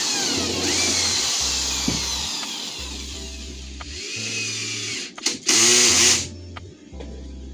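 Power drill running with its pitch sliding up and down as the speed changes, with a short louder burst about five and a half seconds in, over background music with a steady bass beat.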